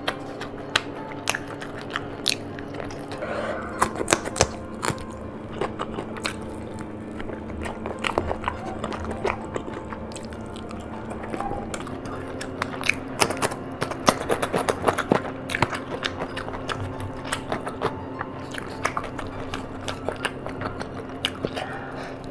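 Close-miked biting and chewing of chicken and fried food: a stream of sharp clicks of mouth and food, thickest about four seconds in and again from about thirteen to sixteen seconds in.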